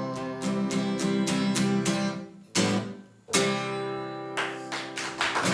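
Acoustic guitar strumming the closing chords of a song: a run of quick strums, a brief break, then a loud ringing chord and a few last strums.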